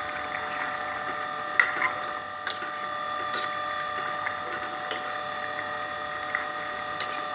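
A steady mechanical hum with sharp clicks about once a second.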